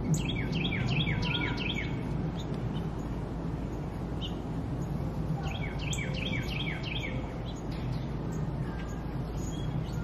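A songbird singing a rapid series of repeated, falling whistled notes, twice, with a few faint higher chips, over a steady low background rumble.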